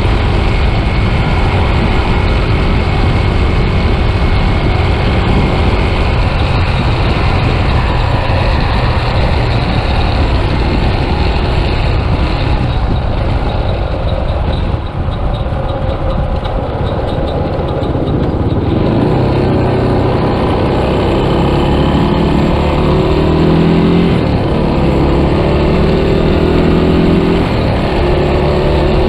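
Yamaha Scorpio's single-cylinder four-stroke engine running under way on the road. In the second half its pitch climbs several times with short breaks between, as the bike accelerates through the gears.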